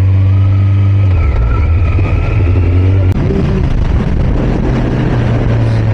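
Kawasaki ZX-14's inline-four engine running in first gear at steady revs, its note shifting about a second in and again about three seconds in.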